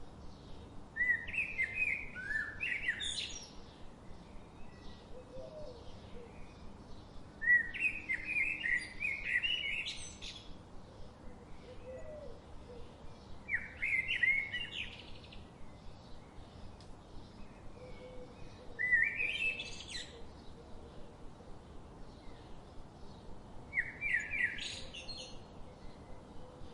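A songbird repeating the same short, high song phrase five times, each about two seconds long and five to six seconds apart, every phrase ending in a quick flourish. A faint, fast ticking runs beneath it.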